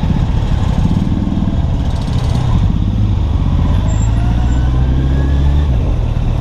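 Kawasaki Z800's inline-four engine running at low speed, its revs shifting as the bike creeps along looking for parking, with traffic around.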